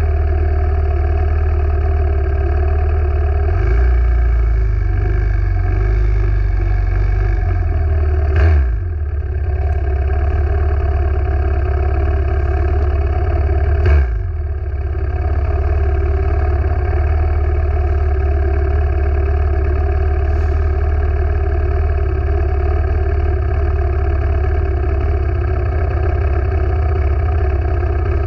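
Small motorcycle engines running: a steady drone, with two brief louder passes about eight and fourteen seconds in, each dropping quickly in pitch as it goes by.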